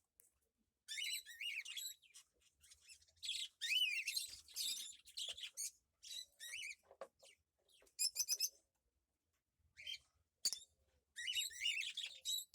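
Cockatiel chirping and warbling in short bursts of quick, high, wavering notes, with brief pauses between them.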